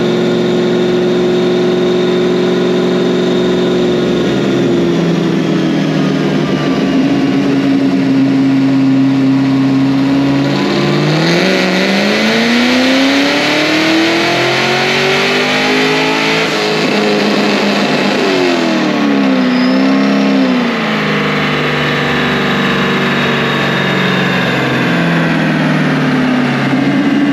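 Supercharged Camaro's engine running steadily, then revving up in a long rising sweep to a peak and dropping back down, with a brief second rise before settling again.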